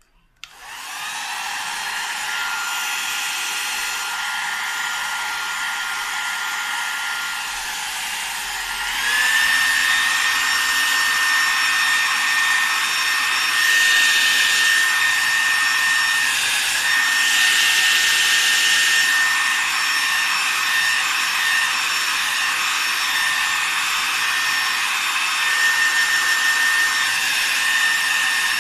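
1977 Clairol 1200 two-speed hair dryer switched on: the motor spins up with a rising whine and runs steadily on low speed. About nine seconds in it is switched to high speed, getting louder as the whine rises to a higher pitch, then runs steadily on high.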